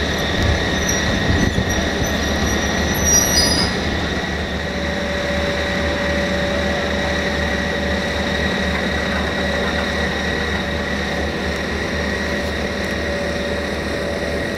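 Train moving through a station, with short high wheel squeals against the rails in the first few seconds over a steady rumble and a steady high whine.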